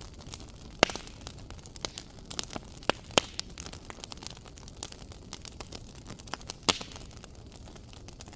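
Wood fire crackling, with scattered sharp pops and snaps over a faint steady hiss; the loudest pops come about a second in, around three seconds in and near seven seconds.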